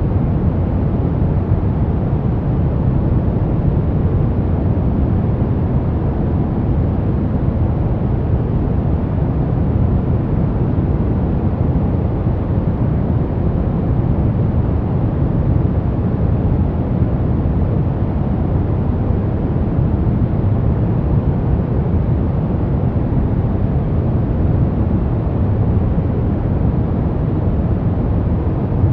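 Steady synthetic noise for baby sleep, deep and rumbling, with most of its weight in the low end and little hiss: closer to brown noise than true white noise. It holds an even level without any change.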